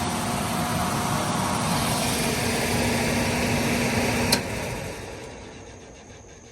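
Furnace blower fan running with steady rushing air and a hum; a little over four seconds in a sharp click sounds and the blower spins down, the air noise fading away as the system is switched off.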